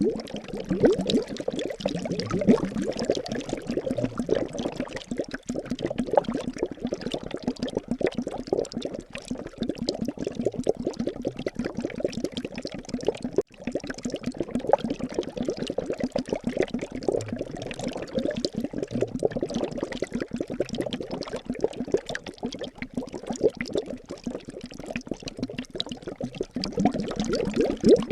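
Liquid bubbling steadily: a dense, continuous stream of small bubbles popping, like a simmering pot or bubbling flask.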